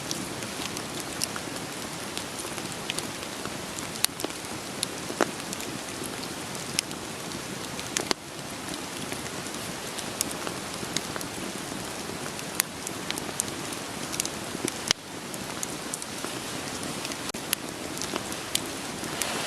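Wood fire crackling with sharp, irregular pops over a steady patter of rain. The level dips sharply twice.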